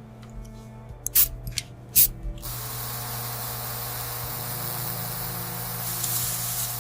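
A few small sharp clicks, then a steady spraying hiss that starts about two and a half seconds in and runs for about four seconds before cutting off.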